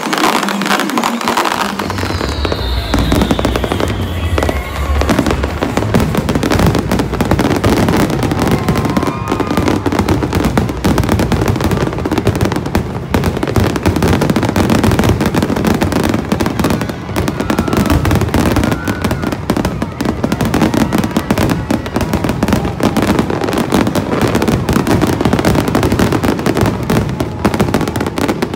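Aerial fireworks display, with shells bursting and crackling one after another without a break, mixed with music that has a heavy bass line.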